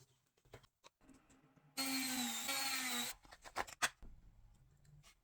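A small power tool whirs for about a second and a half, with its pitch wavering slightly. Light clicks and rubbing sounds of small parts being handled come before and after it.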